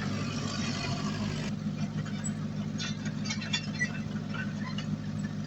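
Heavy diesel engine of an earthmoving machine running steadily, with scattered light clicks and rattles over it. The higher hiss drops out abruptly about a second and a half in.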